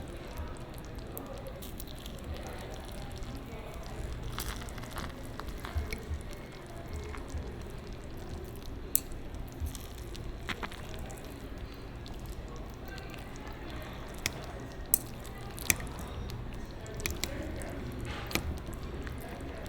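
Scattered sharp clinks and wet, squishy sounds of a spoon working in a bowl of ginseng chicken soup, over a steady low hum.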